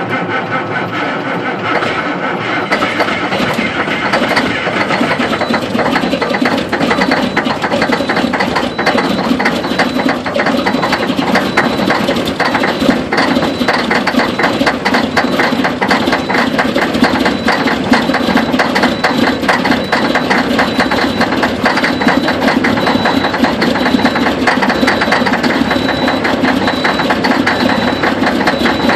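Caterpillar 3406E inline-six diesel in a Kenworth W900L running just after a cold start at about 0 °F with no block heater. It runs with a fast, even clatter that grows more distinct after several seconds.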